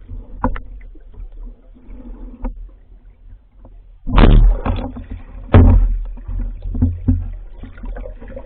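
Water splashing and sloshing as someone moves through a river, with scattered smaller splashes and two loud splashes about four and five and a half seconds in.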